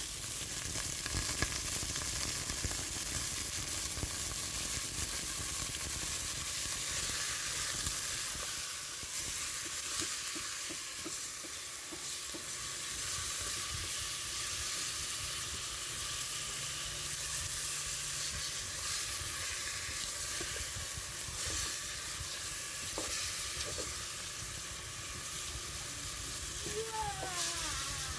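Food frying in oil in a pan: a steady crackling sizzle, with occasional stirring.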